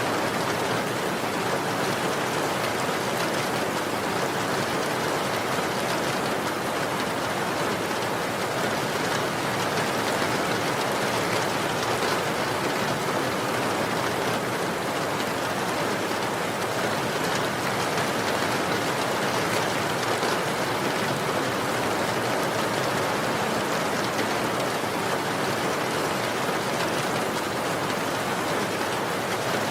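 Steady rain falling, an even wash of spatter with scattered drops, unchanging in strength.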